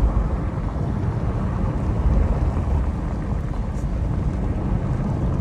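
Car driving at speed: a steady low engine and road rumble.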